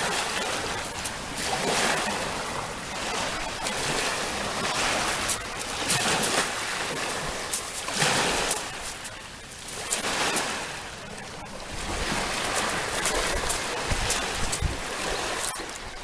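Sea waves breaking and washing on the shore, the surf swelling and easing in surges every few seconds.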